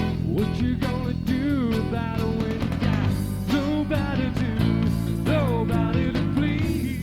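Rock band recording: a lead singer's voice over guitar, bass and drums with a steady beat.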